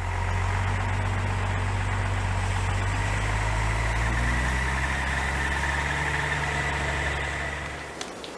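An engine running steadily at idle. Its pitch rises a little midway, and it stops near the end.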